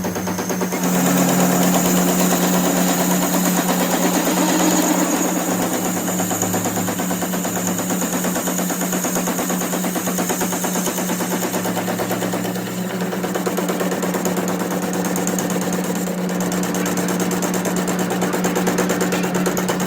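A workshop machine running steadily with a constant hum and a fast, continuous rattle; it gets a little louder about a second in.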